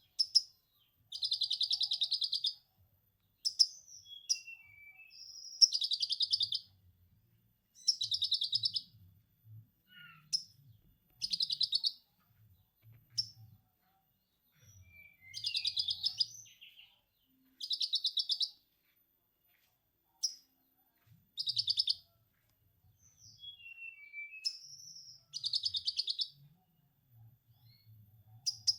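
A konin songbird singing, mostly in lovebird-style 'ngekek' chatter: rapid rattling bursts about a second long, repeated every few seconds, with short high gliding whistles in between.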